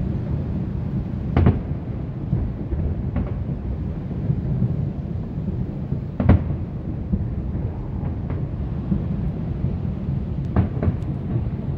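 Distant fireworks display: a continuous low rumble of shells bursting, with sharper bangs about a second and a half in, about three seconds in, at about six seconds (the loudest), and twice close together near the end.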